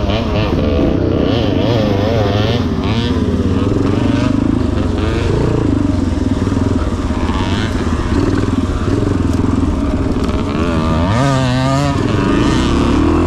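1977 Yamaha TT500's single-cylinder four-stroke engine running hard off-road, its revs rising and falling continually, with a quick rev-up and drop about eleven seconds in.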